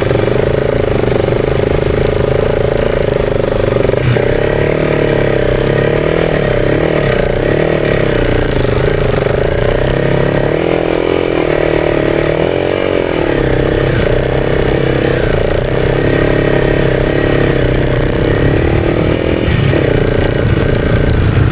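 Honda CRF300's single-cylinder four-stroke engine running hard as the motorcycle is ridden through deep beach sand, its revs rising and falling.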